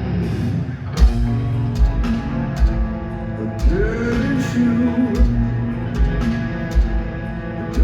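Heavy metal band playing live in an arena: distorted guitar chords ringing over bass drum hits roughly every 0.8 seconds. A singing voice comes in around four seconds in.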